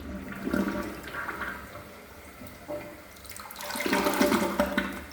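Corona dual-flush toilet flushing: water rushing through the bowl in surges, loudest about four seconds in, then falling away at the end.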